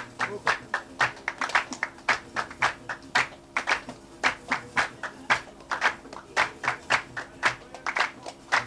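Gnawa qraqeb (iron castanets) clacking in a fast, steady, galloping rhythm of sharp metallic clacks, several a second, with a faint steady low tone beneath.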